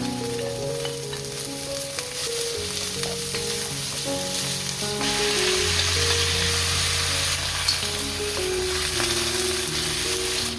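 Oil sizzling in a wok as green onion, garlic and onion are stir-fried with a wooden spatula. About five seconds in, wet seaweed stems with a little water are tipped in and the sizzle turns louder and hissier.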